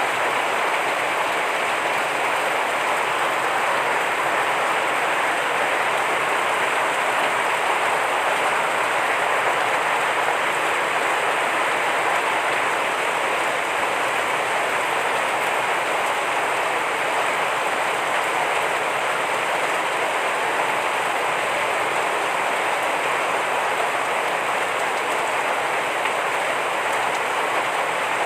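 Heavy rain falling steadily, a dense even hiss without breaks or distinct drops.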